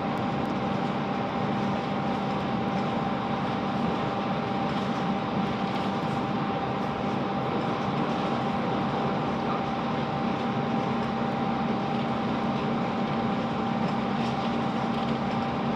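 Class 165 diesel multiple unit running at speed, heard from inside the carriage: a steady rumble of engine and wheels on rail, with a constant high whine over it.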